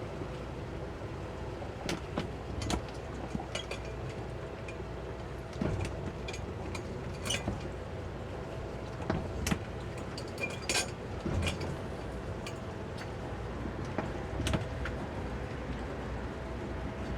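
Towboat's outboard motors running steadily at low speed, with scattered short clicks, knocks and splashes on top.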